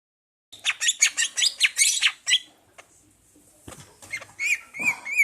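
Pet songbird singing: a fast run of sharp chirps for about two seconds, then, after a short pause, a string of repeated whistled notes.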